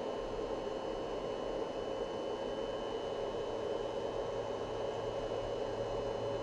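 Steady whirring noise with a low hum and a faint high-pitched whine from a 12 V to 220 V inverter running a fluorescent lamp under load, drawing about 2.3 A.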